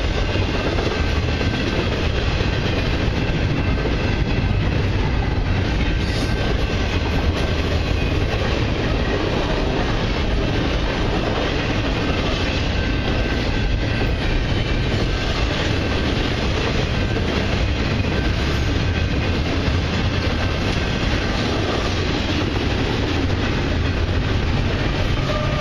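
Freight cars of a long intermodal train rolling past at speed, with a steady rumble and the clickety-clack of wheels over rail joints.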